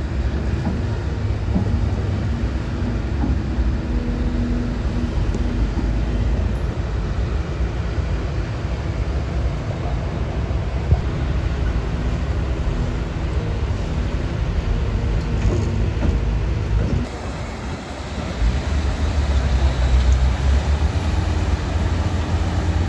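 Heavy diesel engine of a crawler bulldozer running steadily under load. It dips briefly about three-quarters of the way through, then comes back louder.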